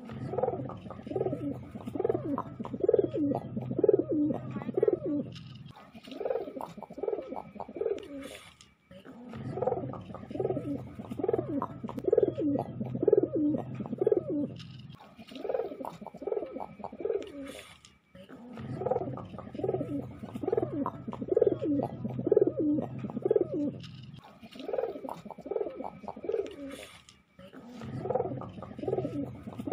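Domestic pigeon cooing: long runs of low, throaty coos, several a second, in bouts broken by short pauses about every nine seconds.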